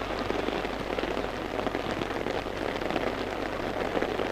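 Rain falling in a dense, steady patter of many small drops.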